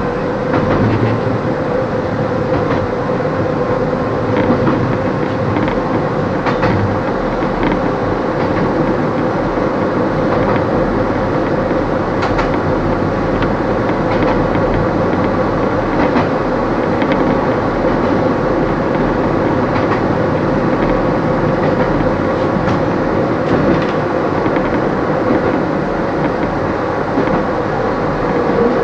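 Kobe Electric Railway 3000 series electric train running, heard from the cab: a steady running noise with a constant hum, and now and then a sharp click of the wheels over the rails. The train is climbing the line's steep grade of up to 50‰.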